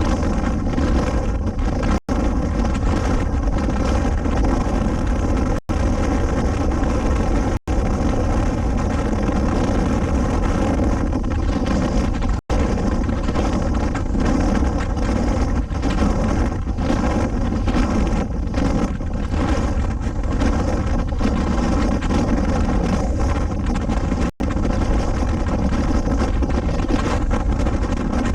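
Suzuki V-Strom 250SX single-cylinder engine running at a steady cruise, under heavy wind noise on the microphone. The sound cuts out for an instant about five times.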